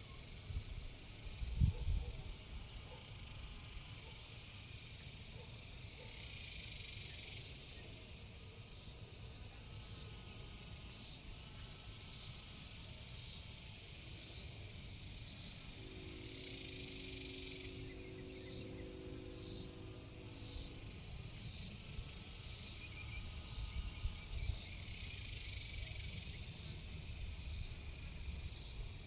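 Insects chirping: a steady high trill, with evenly spaced chirps about once a second through the second half. A single knock comes about two seconds in, and a steady low hum lasts a few seconds around the middle.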